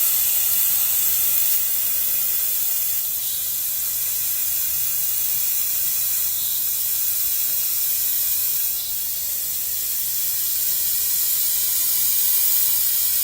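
Dual-action airbrush spraying thinned acrylic paint: a steady, high hiss of air.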